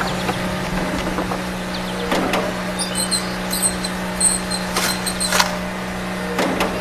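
A small electric motor running with a steady low hum, with scattered clicks and knocks over it. Short high-pitched chirps come in the middle.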